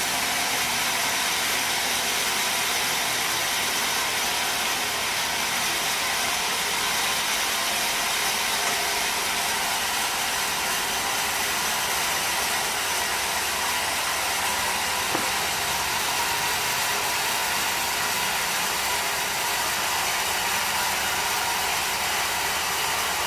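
Sawmill machinery running steadily: a constant, even high-pitched mechanical noise with no cut starting or stopping.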